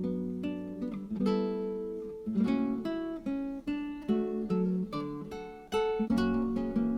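Background music: acoustic guitar picking and strumming in a gentle run of plucked notes that ring and fade.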